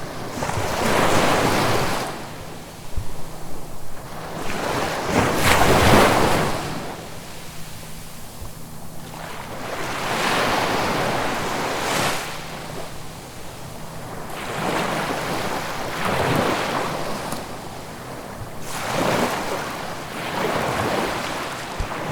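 Sea waves breaking and washing up the shore, one surge of surf after another every few seconds, the loudest about six seconds in.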